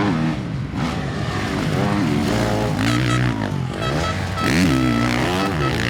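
Several motocross bikes' engines revving hard, pitch rising and falling repeatedly as riders work the throttle and shift around the track.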